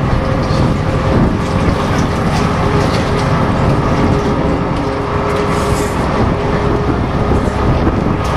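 Canal tour boat's engine running steadily, a constant low rumble with a faint steady whine over it.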